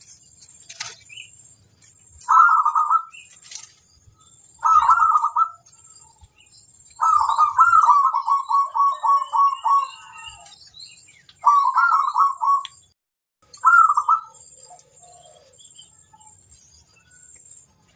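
Zebra dove (perkutut) cooing in five rapid staccato phrases, the longest about three seconds long near the middle. A faint, steady high-pitched buzz runs behind the phrases.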